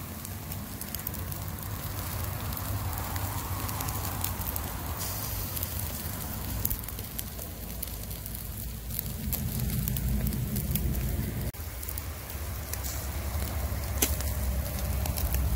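Steady rushing of water from a small waterfall, with scattered sharp crackles and a low rumble that swells and falls.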